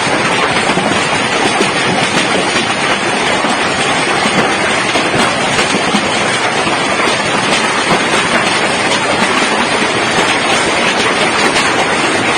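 Heavy hail falling with rain: a dense, steady clatter of countless hailstones and raindrops striking.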